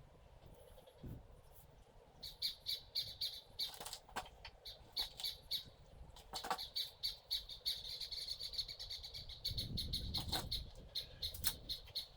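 A bird calling over and over in quick high pulses, with a few sharp knocks and a low thud about ten seconds in.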